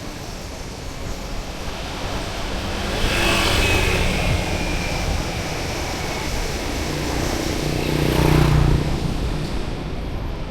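Street traffic: one motor vehicle passes about three seconds in, and a louder, deeper one passes near eight seconds.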